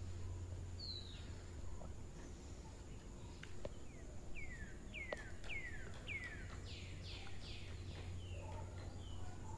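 Quiet outdoor ambience with a bird calling. Around the middle it gives a run of about five quick falling notes, then a few higher falling notes, over a steady high thin tone and a low hum. A few sharp clicks come just before and during the run of notes.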